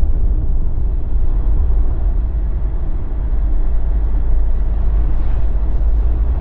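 Jeep Wrangler driving at highway speed: a steady, deep rumble of road and wind noise.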